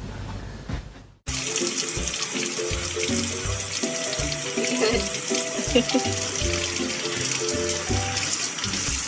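Water running steadily from a tap, starting suddenly about a second in, under background music with a regular low beat.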